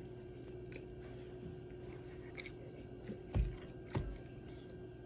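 Quiet, steady low hum with a few faint clicks and two soft low thumps about half a second apart, a little past halfway.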